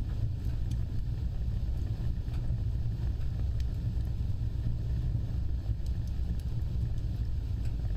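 Wood fire burning with a steady low rumble of flames and a few faint, scattered crackles.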